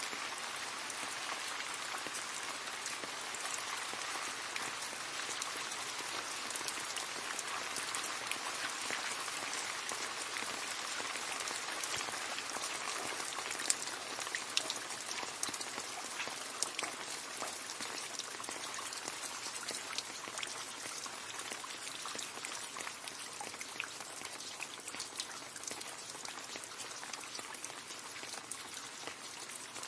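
Steady rain splashing into a puddle, with a dense patter of individual drops and a few louder splashes about halfway through.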